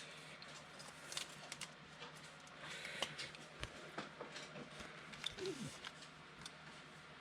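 Faint scattered clicks and rustling of trading cards and card packs being handled, with a short burst of rustling about three seconds in.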